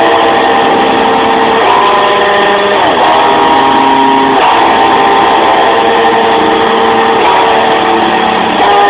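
Strong wind howling, loud and continuous, with several whistling tones that jump or slide to new pitches every second or two over a steady rush.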